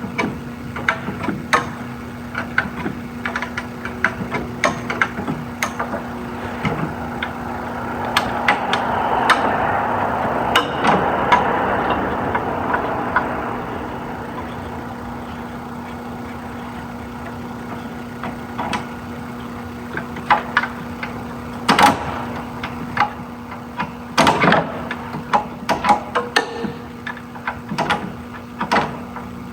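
Scattered clicks, knocks and clanks of hand tools and metal parts as brake lines and hoses are worked loose around a car's ABS pump, over a steady low hum. A rushing noise swells and fades about a third of the way in.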